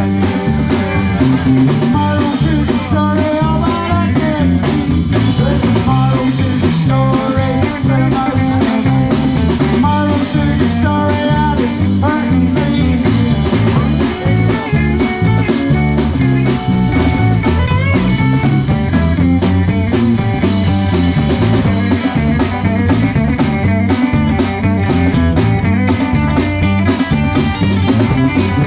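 Live rock band playing a song: electric lead guitar with bending notes over bass guitar, drum kit and percussion.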